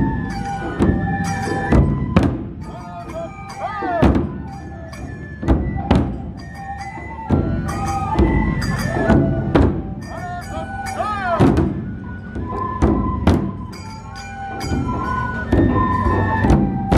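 Matsue dou drum-procession music: a large dou drum is struck heavily about every one and a half seconds under a flute melody of held, stepping notes, with quick light strokes of smaller percussion.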